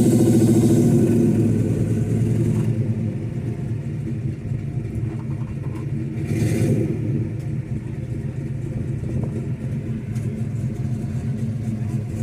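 Classic muscle car's V8 engine running, loud at first and settling within the first couple of seconds to a steady idle rumble, with a short blip of revs about six seconds in.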